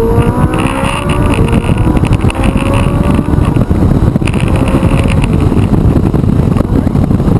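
Ferrari 458 Italia's V8 running hard under way on track. Its pitch climbs slowly in a few long rises over a steady low rumble.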